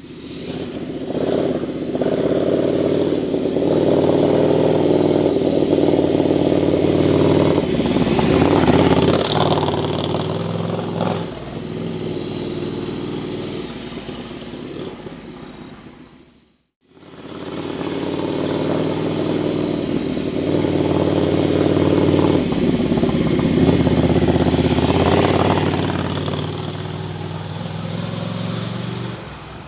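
Ducati Scrambler's V-twin engine running as the motorcycle is ridden, heard in two takes. Each swells up, holds steady, then tapers off, with a brief silent break about 17 seconds in.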